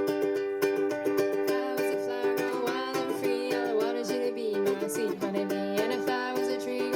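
Ukuleles strumming a fast song in quick, even strokes, with a singing voice coming in about two and a half seconds in.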